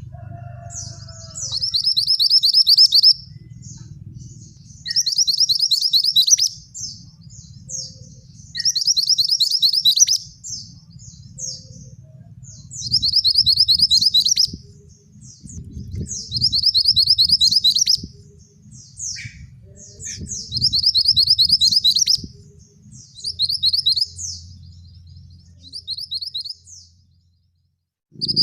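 A male mantenan flowerpecker singing. It repeats a loud, fast trill of high notes lasting about a second and a half roughly every four seconds, with short high chips in between, over a faint low rumble.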